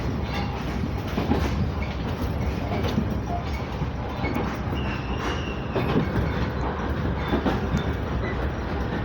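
Sangi Railway 5000 series electric train running between stations, heard from inside the car: a steady low rumble with wheels clicking over rail joints, and a brief high squeal about five seconds in.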